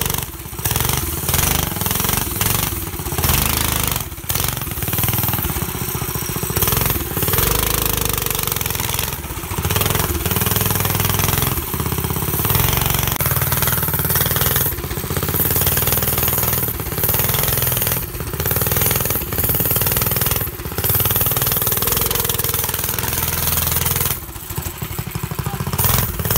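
Go-kart engine running through a motorcycle exhaust as the kart is driven, loud and rough, its sound dipping briefly every second or two as the throttle comes on and off.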